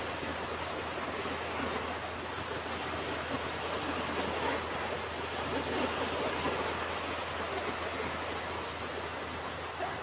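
Ocean surf washing onto a beach: a steady rush of waves that swells slightly about halfway through.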